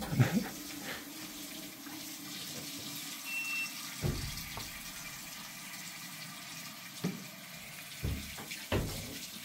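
Water running steadily from a tap, with a few dull knocks now and then.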